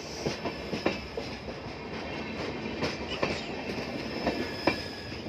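Passenger train coaches rolling past on the track, wheels clattering with irregular clicks and knocks over the rails, and a faint high squeal of wheel on rail.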